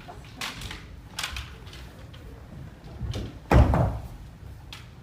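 Kendo footwork and bamboo shinai knocks on a wooden dojo floor: a few short sharp knocks, then one heavy stamping thump about three and a half seconds in.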